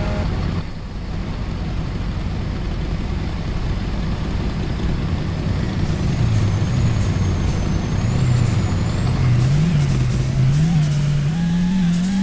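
Truck engine and road noise while driving along, a steady low rumble. From about six seconds in, the engine note climbs gradually in steps as the truck accelerates, with a faint high whine rising alongside it.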